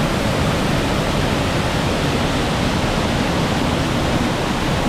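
Small mountain waterfall and creek cascading nearby, a steady loud rush of falling water.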